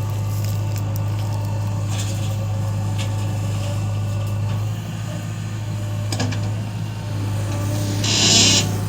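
Diesel engine of heavy earth-moving machinery running steadily with a low hum. Near the end there is a short, loud hiss.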